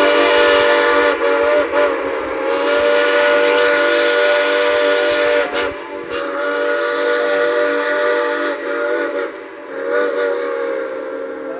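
Steam whistle of a 1929 C-class Heisler geared steam locomotive blowing loud, long blasts of several tones sounding together. The blasts are briefly broken a few times, and the pitch sags as each one closes off. The whistle fades near the end.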